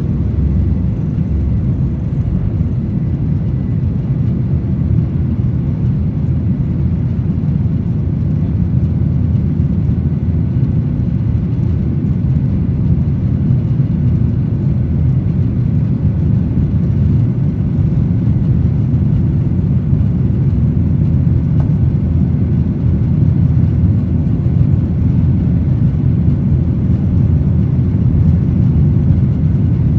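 Boeing 737-900 jet engines and airflow heard from inside the passenger cabin as a steady low rumble, with the airliner climbing after takeoff.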